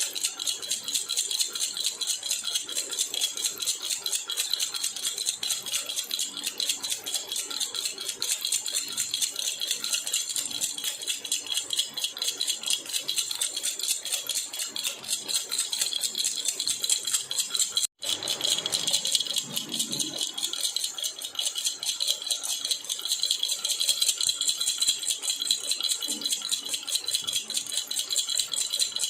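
Silver jhunjhuna baby rattle shaken continuously, a fast, even jingling of many small clicks. It breaks off for an instant about two-thirds of the way through, then carries straight on.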